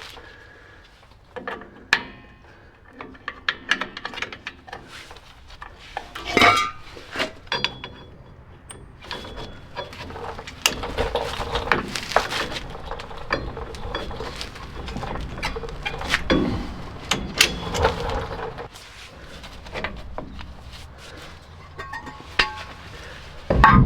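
Metal brake parts and hand tools clinking and knocking during work on a pickup's rear brake, with some scraping about halfway through.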